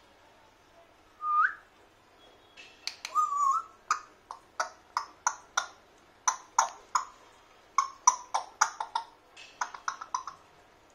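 African grey parrot whistling: a short rising whistle, then a warbled whistle, followed by a rapid run of short, sharp clicking chirps, about two or three a second.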